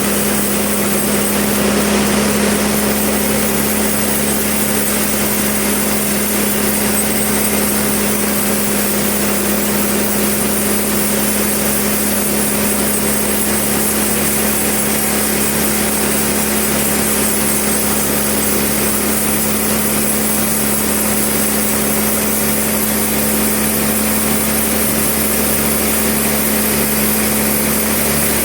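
Sawmill machinery running with a steady, unchanging motor hum.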